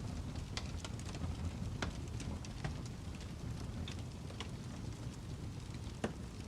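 Fireplace fire crackling: irregular sharp snaps and pops over a low steady rumble, with one louder pop near the end.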